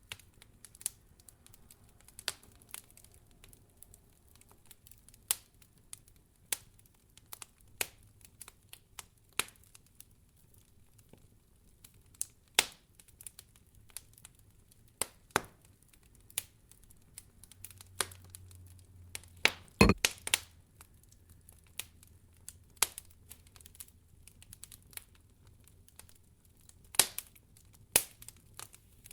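Wood fire crackling in a fireplace: scattered sharp pops and snaps at irregular intervals, with the loudest cluster of pops about twenty seconds in.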